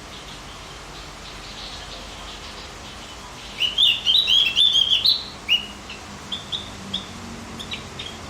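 Javan grey-throated white-eye (opior jawa) singing: faint high chirps at first, then about halfway in a loud, rapid phrase of high twittering notes lasting under two seconds, followed by a few scattered single notes.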